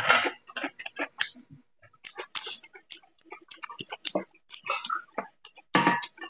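Close-up eating sounds of a man eating chicken curry by hand: chewing and wet lip and mouth smacks in an irregular run of clicks. They are loudest at the start and again near the end.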